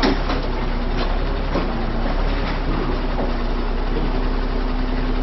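Large diesel truck engine running steadily at idle, with a sharp metallic knock right at the start and a few lighter knocks in the first couple of seconds.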